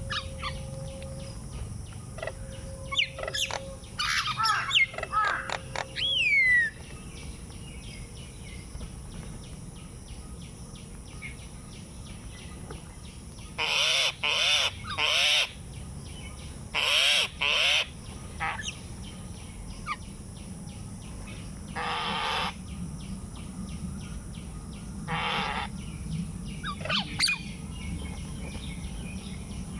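Outdoor bird calls: chirps and a falling whistle early on, then loud harsh calls, three in quick succession and then a pair, with a couple of single calls later.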